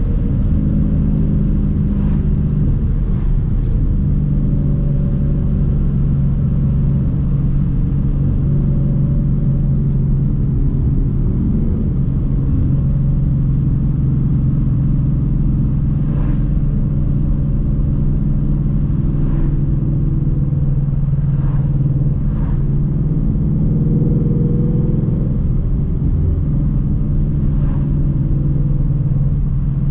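Car engine running steadily under way with low road rumble, its pitch drifting only slightly up and down. A few faint clicks sound over it.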